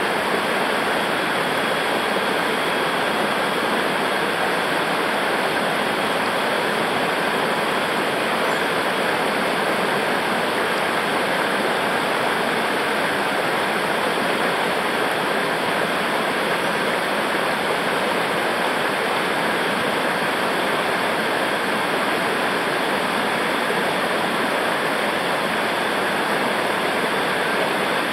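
Fast-flowing river water rushing, a steady, unbroken white-water noise.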